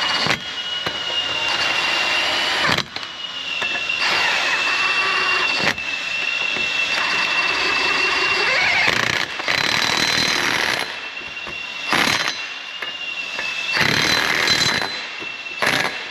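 Power impact wrench running in several bursts of a few seconds each, with a steady high whine, driving in the bolts that hold the pads on a crawler dozer's track.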